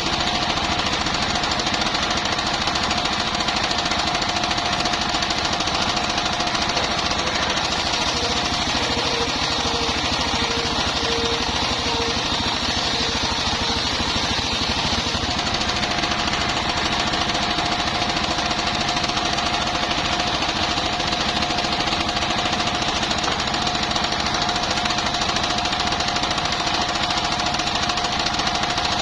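Engine-driven circular sawmill running steadily, its blade sawing bayur timber into beams, with a steady whine that drops out for several seconds partway through.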